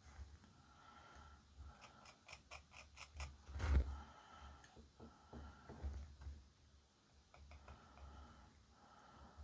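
Faint bench handling noises: a quick run of about six light clicks, then a louder knock, then scattered soft taps, over a low hum.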